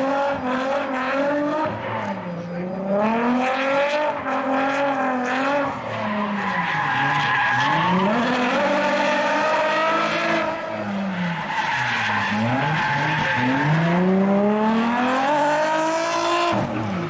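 Drift car engines revving hard, the pitch climbing and dropping again and again as the throttle is worked through a slide, over screeching tyres.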